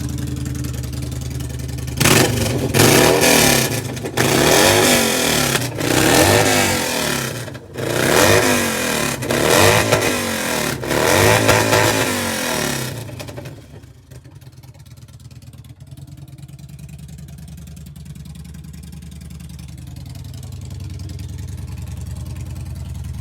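Yamaha SCR950's 942 cc air-cooled V-twin, its exhaust cut off so it runs with no muffler, loud. It idles, is blipped through a string of sharp revs for about ten seconds, then settles back to a quieter, lumpy idle.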